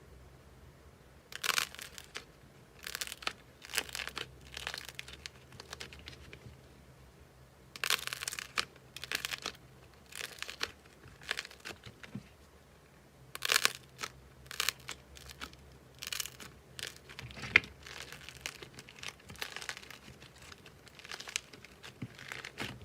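Slime being squeezed and stretched by hand, making short, irregular noisy crackles that come in clusters with quiet gaps between.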